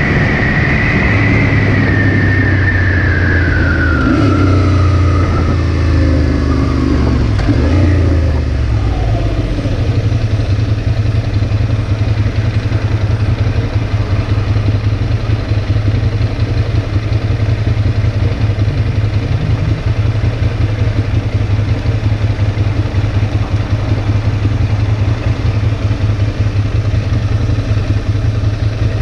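Ducati Monster's V-twin engine with wind rush as the bike rides along, the engine note falling steadily as it slows over the first several seconds. From about ten seconds in the engine idles with a low, pulsing beat while the bike stands still.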